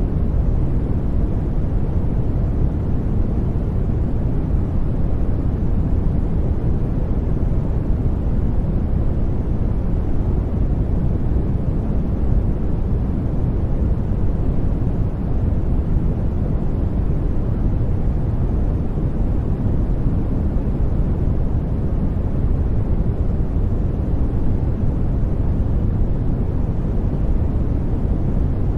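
Steady sleep noise, a dull, even rush heavy in the low end with little hiss, unchanging.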